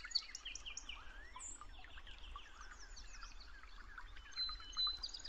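Several birds chirping and calling, fairly faint: a busy mix of quick high chirps and short whistled notes.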